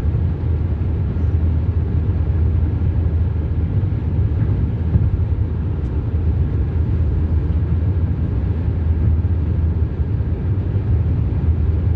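Steady low rumble of road and engine noise heard inside a vehicle's cabin while driving at highway speed.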